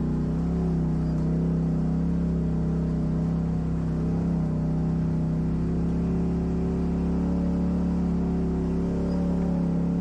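Off-road vehicle engine running at a steady low speed, a constant low drone with slight wavering in pitch.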